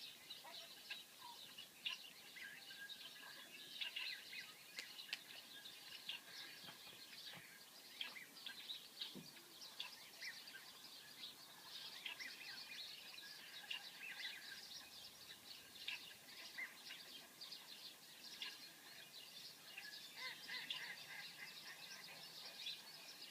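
Recorded birdsong, a dense chatter of short chirps from many small birds, played faintly through an iPad's speaker.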